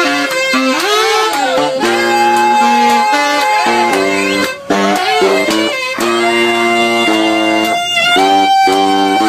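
Saxophone playing held, sustained notes over steady accompanying chords, with a short break about four and a half seconds in.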